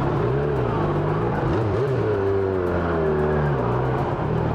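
Motorcycle engine running, its pitch rising and falling several times with the throttle.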